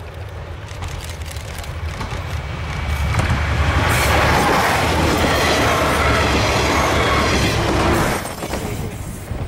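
A Yufuin no Mori diesel train passing close by: rumble of the running gear and wheels on the rails, building over the first few seconds, loud for about five seconds, then falling away suddenly near the end.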